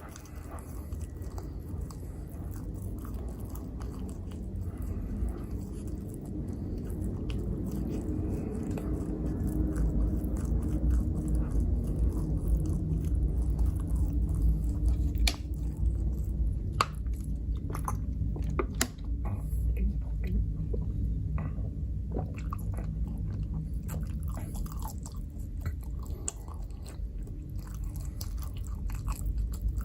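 Close-miked chewing of microwaved pizza: steady mouth sounds, with crisp clicks and crackles of biting and crunching in the second half.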